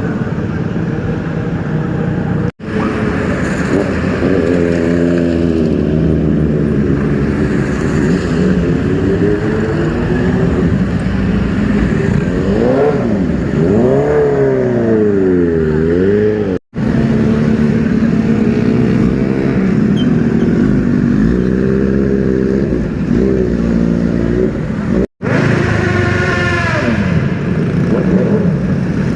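Superbike engines revving and running past, their pitch rising and falling, in several short clips joined by abrupt cuts.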